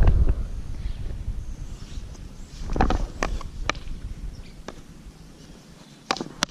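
Wind buffeting the microphone that dies away in the first second, then irregular light knocks and scuffs like footsteps.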